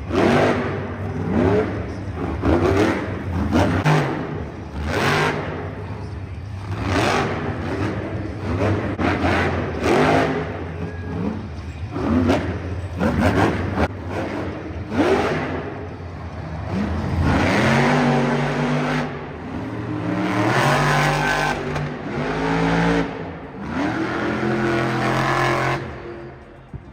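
Monster truck's supercharged V8 revved hard over and over in quick rising bursts, about one a second, then held in longer revs through the second half.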